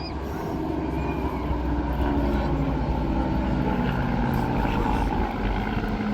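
Rolls-Royce Merlin piston engines of a Hawker Hurricane and a Supermarine Spitfire flying past in formation, a steady propeller-aircraft drone that grows a little louder about two seconds in.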